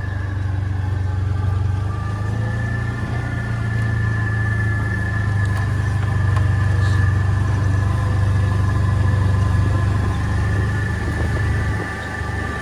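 Farm vehicle's engine running steadily under load as it climbs a steep slope, with a steady high whine over the engine hum. The engine eases off near the end.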